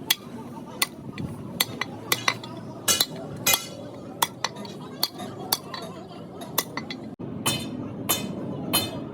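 Hammer striking metal: a run of sharp, irregular metallic clinks, each ringing briefly, about one to two a second, over a low steady background noise.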